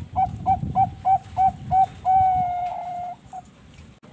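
Zebra dove of the Bangkok-bred perkutut song strain cooing: a run of six short clipped coos, about three a second, then one longer held coo and a brief final note.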